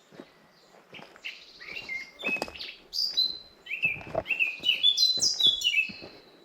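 A songbird singing a rapid, varied song of short chirps and slurred notes, building from about a second in and loudest in the second half. Soft footsteps on a forest path sound under it.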